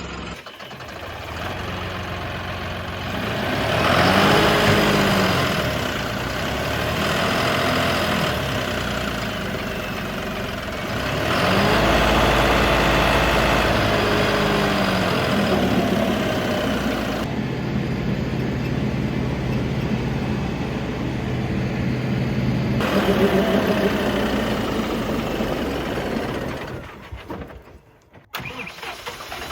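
Diesel tractor engine revving up and back down several times, with steadier running in between. The sound drops away briefly near the end.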